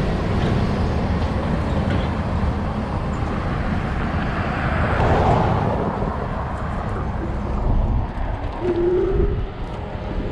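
Steady rush of wind and road noise while riding an electric bike, with a heavy low rumble. A short steady tone sounds briefly near the end.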